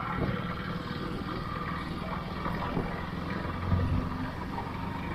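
Motorcycle engine running steadily while riding, with road and wind noise; the engine note swells briefly near four seconds.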